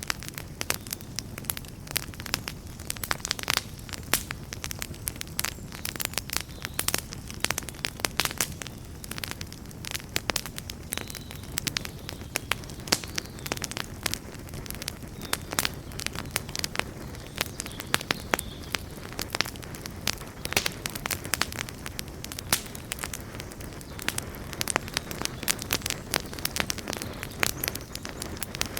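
Campfire burning, with dense irregular crackles and pops over a steady low rumble of the flames.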